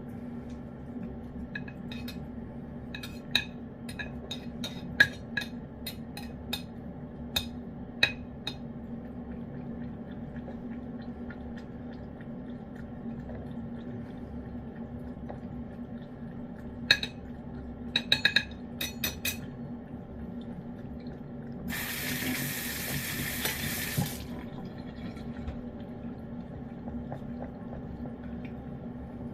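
Cats eating wet food from dishes: scattered clicks and taps against the bowls in two spells, over a steady low hum. A two-second rush of hiss comes about three-quarters of the way through.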